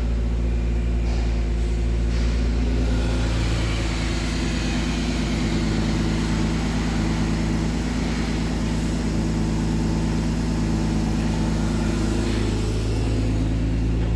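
A 2002 Ford Taurus's 3.0-litre V6 engine running steadily at idle.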